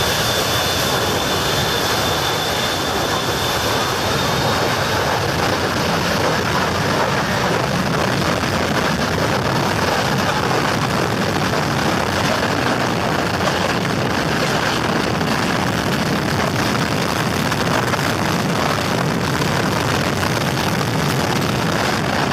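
Jet airliner engines at takeoff thrust, a loud, steady roar of engine noise and jet blast. A thin high whine over it fades out about four seconds in.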